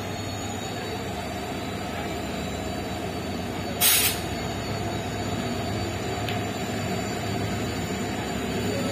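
Passenger train coach rolling along the track, heard from the open doorway: a steady rumble of wheels on the rails with a faint high whine. A short, loud rushing burst of noise comes about four seconds in.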